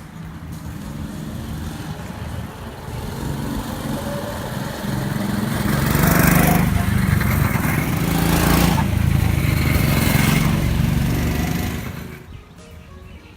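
Small go-kart engine running, getting louder and loudest through the middle, with bursts of rushing noise, then falling away sharply near the end.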